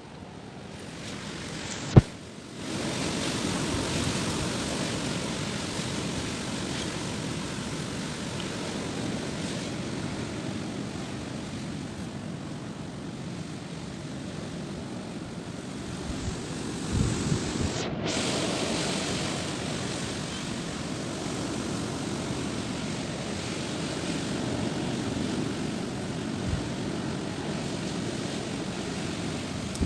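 Strong wind blowing in gusts, a steady rushing noise that swells and eases, with low thumps of wind buffeting the microphone. A sharp click about two seconds in.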